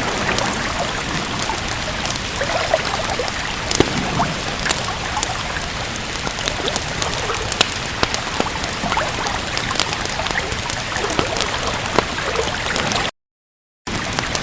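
Steady rain with trickling water, dotted with scattered sharp crackles from a wood fire. Near the end the sound cuts out completely for under a second, then resumes.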